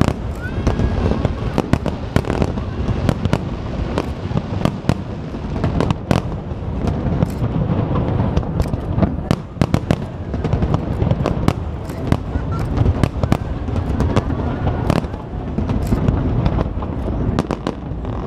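Fireworks going off: many sharp bangs and crackles in quick, irregular succession over a steady low rumble.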